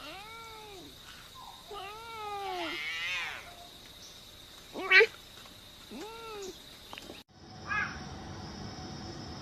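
A cat meowing: several drawn-out meows that rise and fall in pitch, with a short sharp one about five seconds in. About seven seconds in, the background changes abruptly and a few shorter mews follow.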